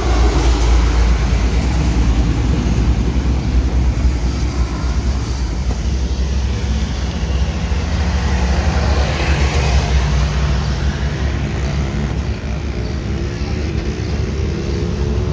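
Road traffic noise: a steady low rumble of vehicle engines and tyres.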